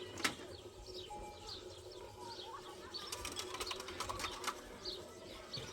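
Small birds chirping in quick, short, falling notes, with a few light clicks a little past the middle.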